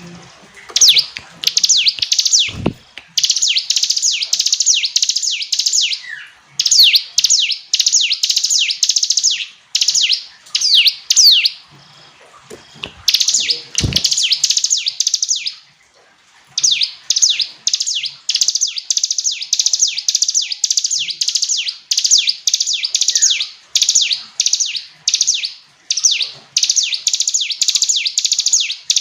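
Ciblek gunung, a prinia, singing loud fast runs of high sweeping chirps in bursts of one to three seconds with short gaps between them. Two brief low thumps come about 3 and 14 seconds in.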